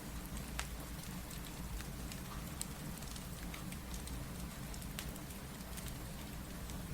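Steady rain with a fireplace crackling over it in scattered sharp pops.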